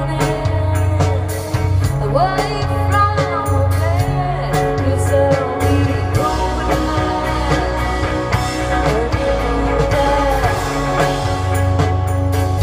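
A live band playing a song, with a woman singing a gliding melody over a pulsing bass line and held guitar chords. The voice comes in about two seconds in and drops out near the end.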